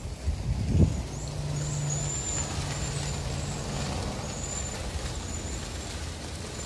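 A steady low rumble like a vehicle engine, with a knock about a second in and a low hum for the next few seconds. Faint high chirps from the bird flock recur throughout.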